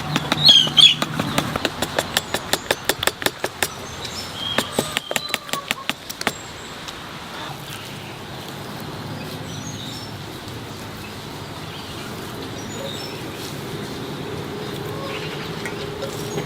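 A rapid run of sharp knocks, about four a second, for the first six seconds, then stopping abruptly. Bird chirps sound near the start, and faint chirps go on over a steady low background hiss afterwards.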